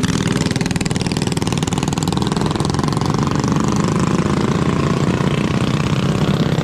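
Small single-cylinder mini bike engine running steadily, its pitch creeping up slowly over the last few seconds.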